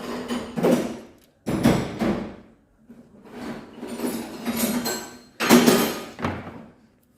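Metal engine parts and tools clanking and scraping in about four bursts of a second or so each, some starting sharply.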